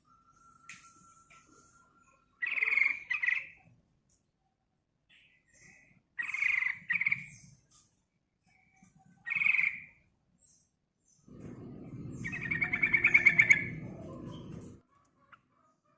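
Yellow-vented bulbul giving short, rapid chattering call phrases: two quick bursts, a pause, two more, a single one, then a longer phrase near the end over a low rumbling noise.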